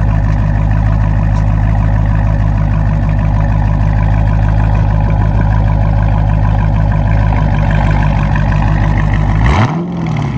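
Dodge Charger Scat Pack's 6.4-litre 392 HEMI V8 running steadily at low revs, with a quick throttle blip near the end whose pitch rises and falls back.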